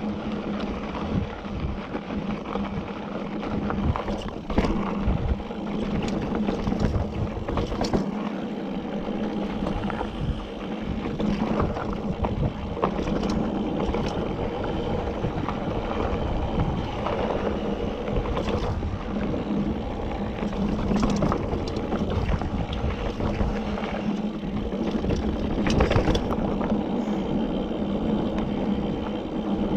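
Mountain bike riding over rocky trail: tyres rolling and the bike rattling, with frequent sharp knocks, under steady wind noise on the microphone.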